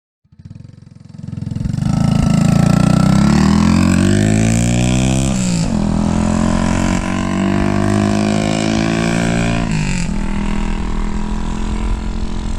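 Ice Bear Champion CT70-clone mini bike engine running through an aftermarket exhaust under acceleration. Its pitch climbs, falls sharply about five and a half seconds in, climbs again, then falls again near ten seconds, as when shifting up through the gears.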